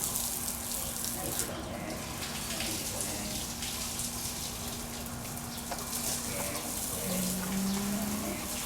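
Water running steadily, with a faint steady hum underneath and a brief low tone near the end.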